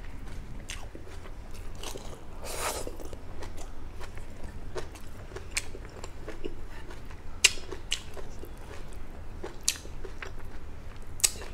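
A person chewing food with the mouth open, with scattered short wet mouth clicks.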